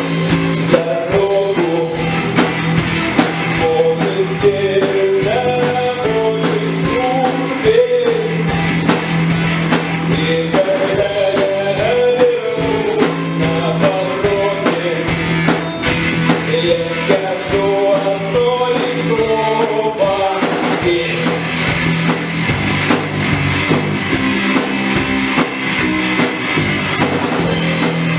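Live rock band music: drum kit with bass drum, guitars and bass playing a steady beat. A wavering lead melody runs over the band until about two-thirds of the way through, then drops out while the band plays on.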